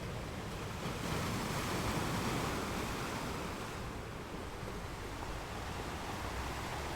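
Ocean waves washing ashore: a wave surges up about a second in, peaks, then draws back into a steady hiss of surf.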